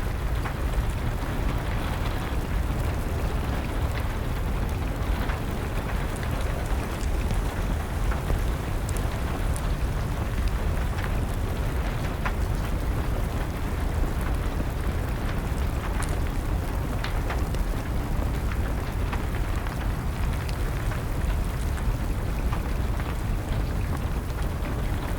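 Steady rain mixed with a crackling wood fire: a continuous patter with a deep rumble underneath, and a few sharp crackles and pops scattered through it.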